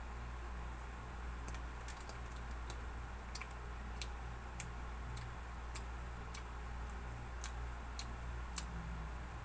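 A person chewing soft loaf bread with an open mouth: irregular sharp mouth clicks, about two a second, over a steady low hum.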